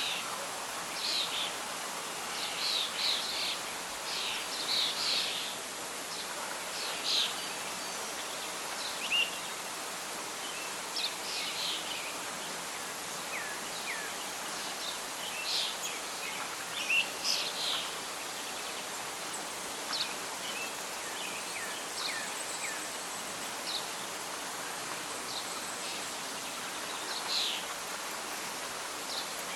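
Wild birds chirping and calling in short, scattered phrases over a steady hiss of wind and rustling leaves. The calls are thickest in the first several seconds.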